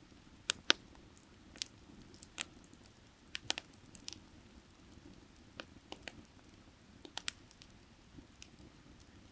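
Firewood burning, crackling with irregular sharp pops and snaps, over a low steady rush of creek water.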